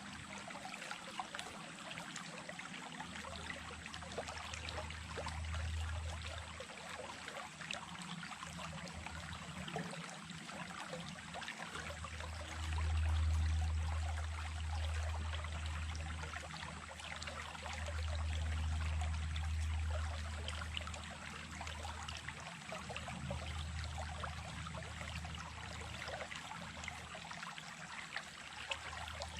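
Small creek running steadily, a continuous splashing, gurgling rush of water over stones. A low rumble swells and fades several times, loudest around the middle.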